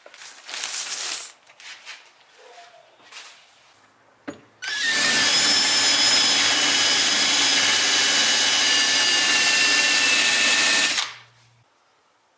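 Power drill with a step bit drilling out the stud holes of a head gasket: a short noisy burst near the start, then about six seconds of steady drilling with a high motor whine, stopping sharply.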